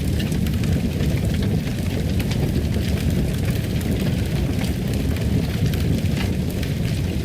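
Wood fire crackling in a fireplace: a steady low rumble of flames with frequent small pops and crackles.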